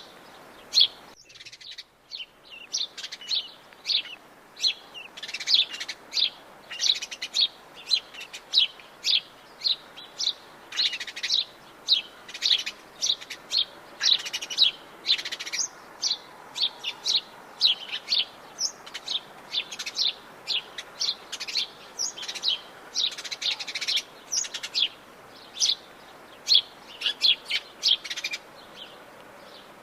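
Dense chorus of wild forest birds chirping, short high calls overlapping several times a second, over a faint steady hiss.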